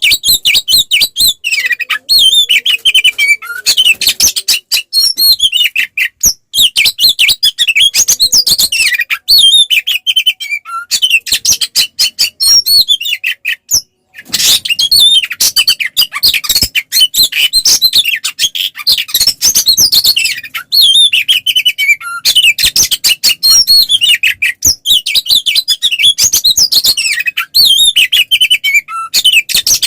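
Oriental magpie-robin (kacer) in full, aggressive fighting song: a loud, unbroken stream of rapid high chirps, whistles and clicking notes, with one short break a little before halfway.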